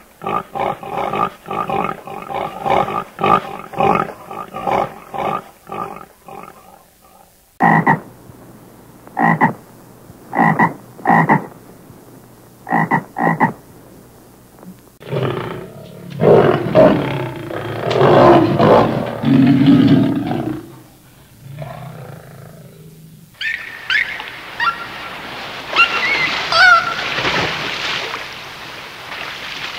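Different animal calls played one after another: rapid repeated calls at about two a second for the first seven seconds, then a handful of short separate calls, then a long rough call in the middle, and high chirping calls near the end.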